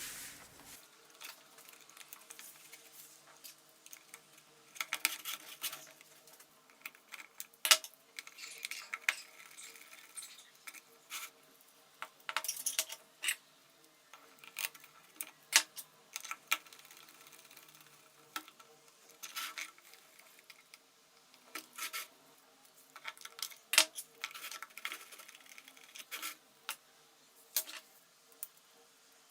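Blender parts being handled: irregular clicks, clinks and knocks of hard plastic, glass and metal pieces set down and fitted together, with two sharper knocks standing out.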